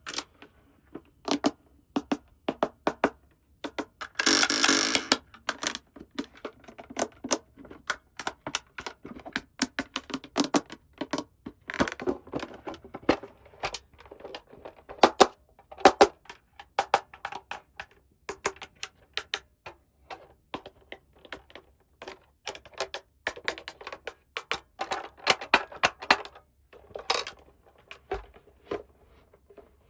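Small plastic toy pieces being handled, with many irregular clicks and taps and a brief rustle about four seconds in.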